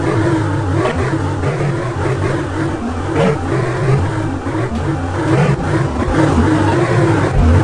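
Ceiling fan running, close up: a steady low motor hum under a wavering rush of noise with faint ticks.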